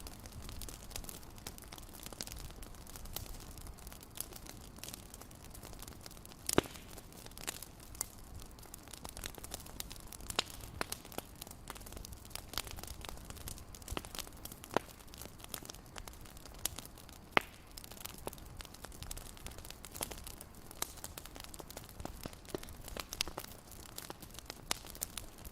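Wood fire crackling in a fireplace: irregular sharp pops and snaps over a low steady rumble, with a couple of louder pops.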